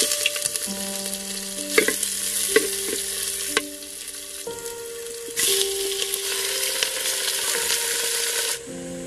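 Ginger and onion sizzling in hot oil in a clay pot, with a few sharp clicks from the utensil. The sizzle eases about four and a half seconds in, comes back louder about a second later as chicken pieces go in, and stops abruptly near the end.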